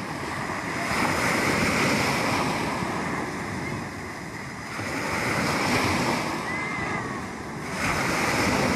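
Sea waves breaking and washing on the shore, swelling and falling back in three surges.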